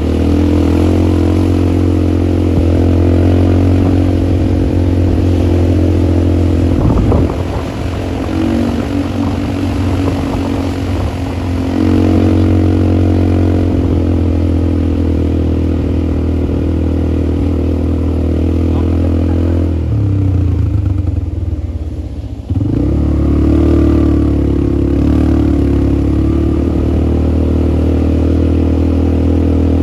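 ATV engine running steadily while riding. The engine note dips briefly about seven seconds in, sags and fades around twenty seconds in, then picks up again sharply.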